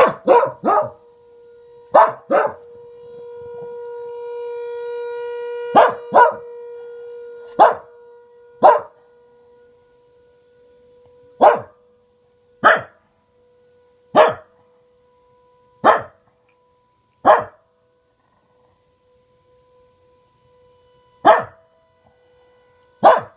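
Pembroke Welsh Corgi barking at a tornado siren: about seventeen sharp single barks, a quick run of four at first, then spaced one to two seconds apart. Under them the civil defense siren's steady, single-pitched wail swells to its loudest a few seconds in, then fades to faint and returns near the end.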